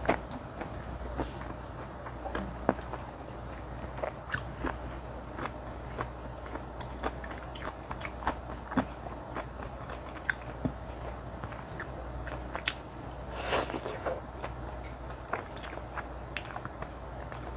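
Close-up chewing and biting of spicy mala xiang guo: repeated soft, wet mouth clicks and crunches, with one louder, longer crunchy stretch about three-quarters of the way through.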